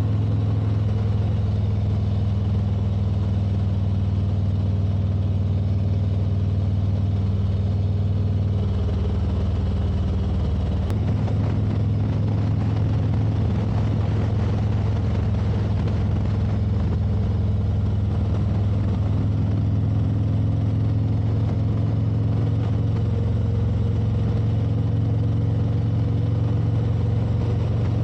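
Motorcycle engine running steadily at cruising speed, with road and wind noise; the engine pitch shifts a little about nine seconds in and again about eleven seconds in.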